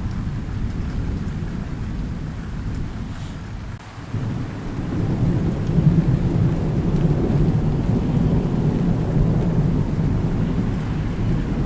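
Thunder rumbling over steady rain. The rumble dies down about four seconds in, then a new roll of thunder builds and rumbles on.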